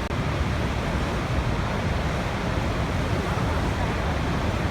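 Waterfall: a steady, even rush of falling water, heavy in the low end, with a momentary dropout right at the start.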